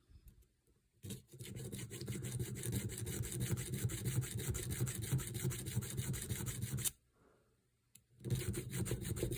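Small diamond file rubbing quickly back and forth across the slot of a small steel gun screw, recutting a burred screw slot by hand. One long bout of filing of about six seconds, a short pause, then filing again near the end.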